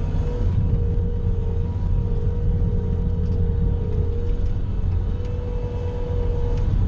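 Bobcat skid-steer loader's engine running steadily under work, a deep rumble with a steady whine over it, while it pushes snow with a plow attachment.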